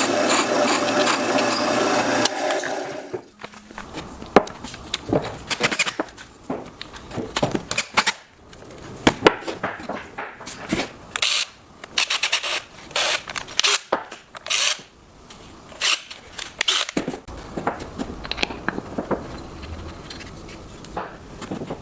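A power tool working wood, running steadily and stopping about two and a half seconds in. Then irregular knocks, taps and short scrapes of wood pieces and tools being handled.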